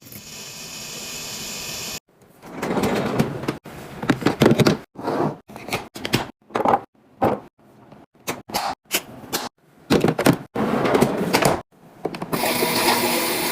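Food packaging and containers being handled and set down: an irregular run of clicks, clacks and rustles. There is a steady hiss for the first two seconds and again from near the end.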